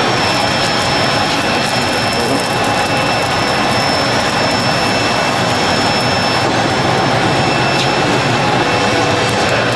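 Loud, steady machine noise with a faint, even high whine running through it, without a break.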